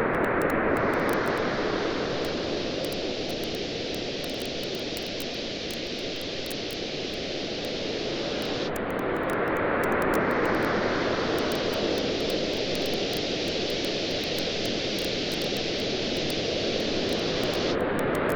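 Ocean waves washing on a beach in slow swells about every nine seconds, with the sparse light crackle of a wood campfire on top.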